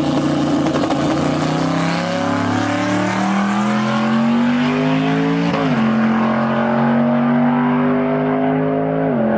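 Camaro ZL1's V8 engine accelerating hard through the gears: its pitch climbs steadily, drops sharply at an upshift about halfway through, climbs again, and drops at a second upshift near the end.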